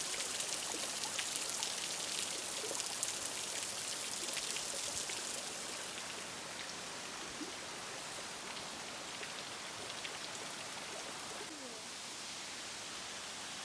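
Falling water splashing and rushing over rocks, a steady hiss with fine crackle that eases slightly about halfway through, and a few faint bird calls.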